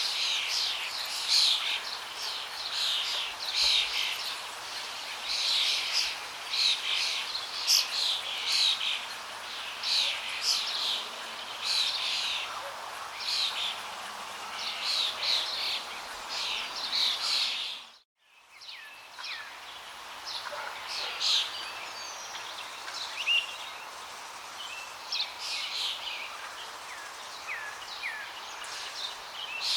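Many small birds chirping and singing over a steady rush of flowing water. About eighteen seconds in, everything briefly dips almost to silence and comes back, and after that the birdsong is sparser.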